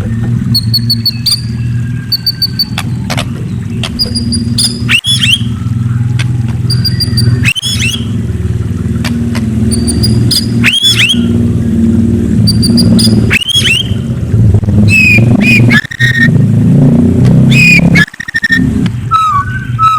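A murai bird calling: short high whistled notes in little groups, and a rising-and-falling swooping call about every two to three seconds. Under it runs a loud, steady low hum that is louder than the bird.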